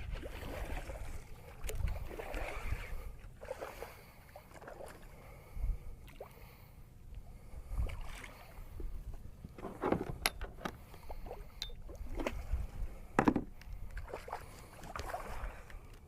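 Water splashing and sloshing around a kayak, with a few sharp knocks on the hull about ten and thirteen seconds in, over a low rumble of wind on the microphone.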